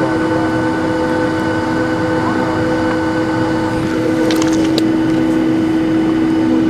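Boeing 757 cabin noise on the ground: a steady rush of air with a steady whine of several tones held at a constant pitch, with a few light ticks a little past the middle.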